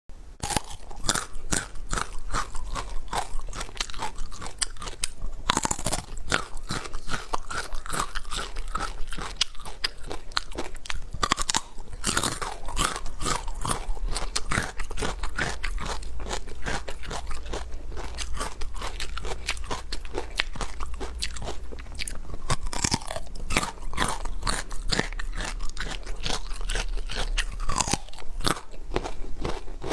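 Close-miked crunchy chewing and biting of food: a rapid, dense run of crisp crackles with a few brief lulls.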